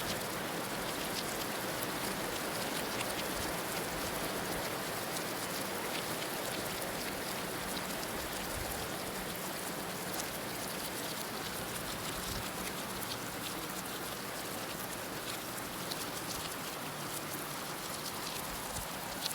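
Steady heavy rain falling, a dense even hiss with many fine drop ticks throughout.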